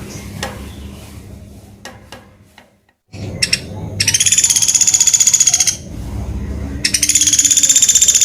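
Pelatuk beras woodpecker giving a rapid, high-pitched rattling trill of about ten notes a second, twice, each run lasting about two seconds.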